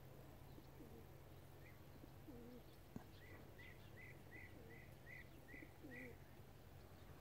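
Faint bird calls: a run of about eight short, high chirps at roughly three a second, over low, soft calls from another bird, against a steady low hum. There is a single sharp click about three seconds in.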